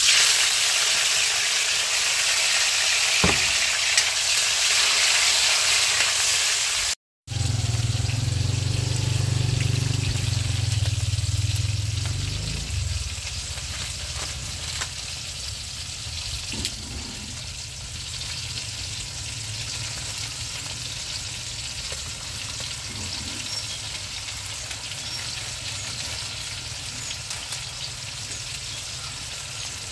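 Sliced onion and tomato frying in hot oil in a wok, a loud steady sizzle for the first several seconds that settles to a quieter one. A low rumble sounds for a few seconds about seven seconds in.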